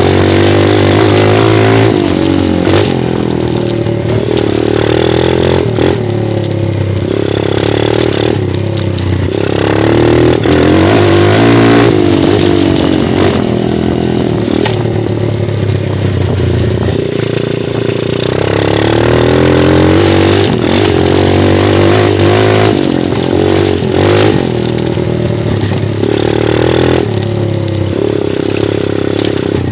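A 125cc single-cylinder dirt bike engine being ridden. Its pitch repeatedly climbs under throttle and drops again every few seconds as the rider accelerates and backs off.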